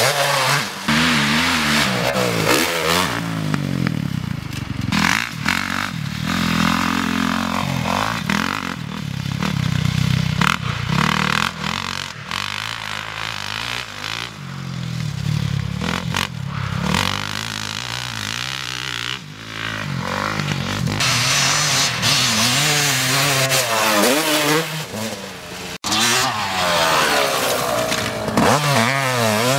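Motocross bike engine revving up and falling back over and over as the throttle opens and closes, with pitch swings like gear changes between bursts.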